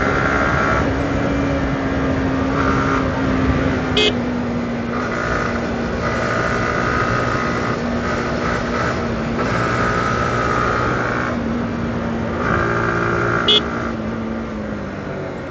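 Yamaha R15M V4's 155 cc single-cylinder engine running steadily, its pitch sagging slowly over several seconds. Two brief sharp clicks sound about four seconds in and near the end.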